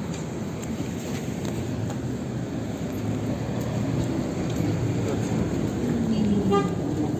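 71-608KM tram in motion, heard from inside the car: a steady rumble of wheels and running gear on the rails, with a tone falling in pitch over the last couple of seconds.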